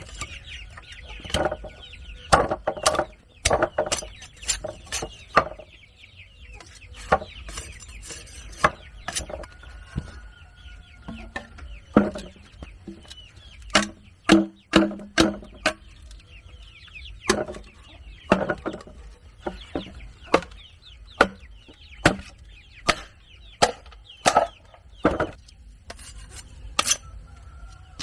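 Chickens clucking, with irregular sharp knocks of work on wood throughout.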